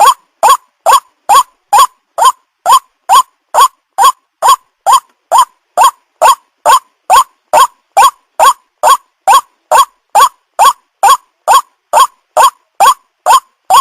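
White-breasted waterhen call used as a bird lure: a short rising note repeated steadily, about two to three times a second.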